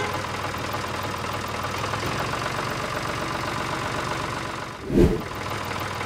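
Tractor engine idling with a fast, even chugging knock. A brief low tone sounds about five seconds in.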